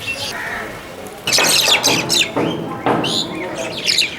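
A flock of mynas calling and chattering, with two loud stretches of harsh calls, one a little after the first second and one near the end.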